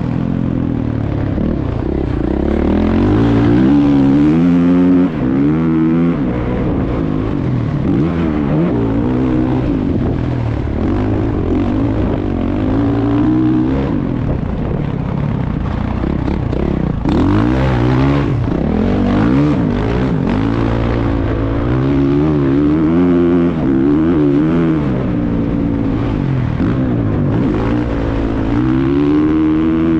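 Motocross motorcycle engine revving up and down over and over as the bike accelerates, shifts and backs off around the track, heard from a helmet-mounted camera. A short burst of rushing noise a little past the middle.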